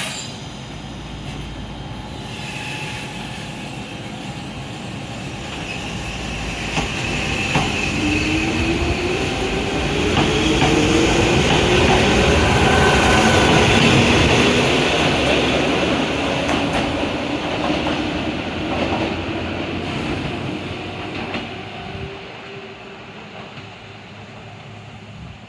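Toyama Chiho Railway 10030 series electric train pulling away from the station. Its motor whine rises in pitch as it accelerates, and the wheels click over rail joints. The sound grows to its loudest about halfway through, then fades as the train moves off.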